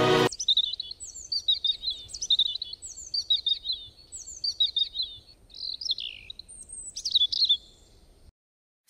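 Songbird singing: short phrases of high chirps and quick downward-sweeping notes, repeated about once a second, stopping suddenly near the end.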